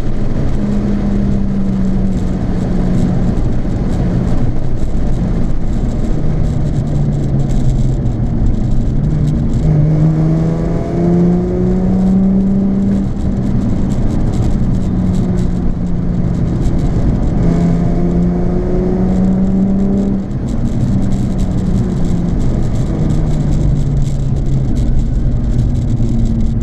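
Nissan 350Z's 3.5-litre V6 running through a Japspeed aftermarket exhaust while driving, a steady exhaust note whose pitch steps up and down with engine speed. Twice, about ten and eighteen seconds in, the note climbs as the car accelerates.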